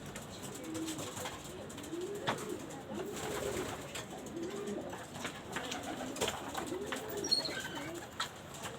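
Domestic pigeons cooing over and over, low coos that rise and fall in pitch. A few sharp clicks break in, and a brief high chirp falls away near the end.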